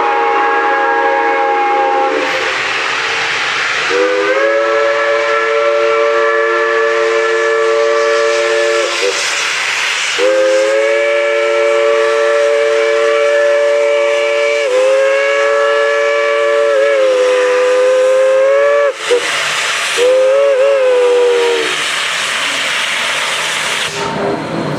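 Steam locomotive's multi-note chime whistle blown in several long blasts, then a short toot and a wavering blast near the end as the valve is worked. Steam hisses in the gaps between blasts.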